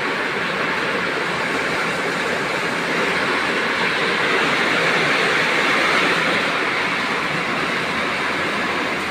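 Heavy downpour with strong wind: a dense, steady hiss of rain that holds at one level throughout.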